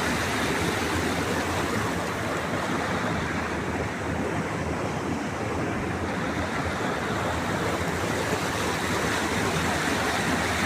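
Water of a rocky river rushing over and between the rocks, a steady, even flow noise.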